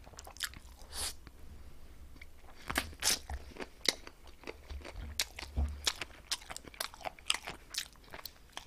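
Crispy chicken being bitten and chewed: many irregular sharp crunches, with a few louder ones about three seconds in and a quicker run of them through the second half.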